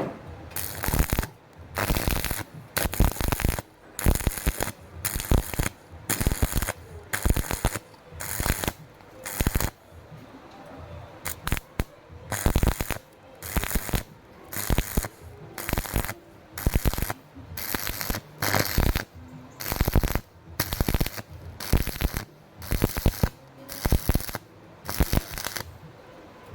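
Stick-welding arc crackling in repeated bursts of about half a second, struck and broken roughly once a second, with a short pause about halfway through. It is an on-off arc technique for welding thin square box pipe without burning through.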